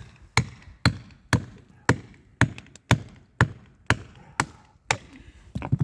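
Repeated hard blows struck at an even pace, about two a second, each a sharp knock, like something being chopped or hammered.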